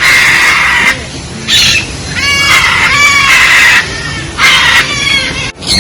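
Loud, harsh bird screeches repeated several times in quick succession, a few in the middle turning into pitched, ringing squawks.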